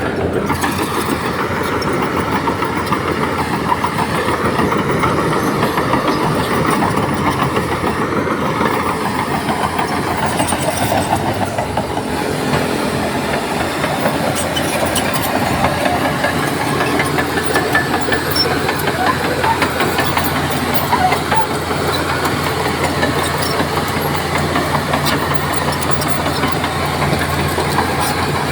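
Heavy diesel earthmoving machinery running steadily, with scattered light clanks and rattles over the engine rumble; the low engine hum steadies about halfway through.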